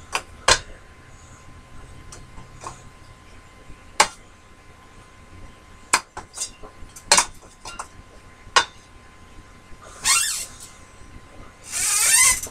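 Scattered sharp clicks and clinks of metal tools being handled, followed near the end by two short scraping sounds that rise in pitch.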